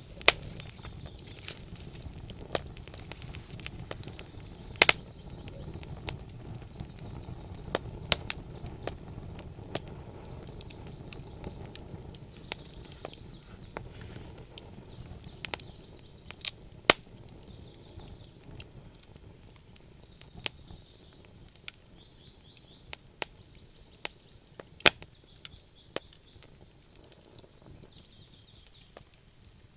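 Wood fire burning in a stove, crackling with irregular sharp pops over a low rumble of flame; the rumble fades about halfway through, leaving mostly scattered pops.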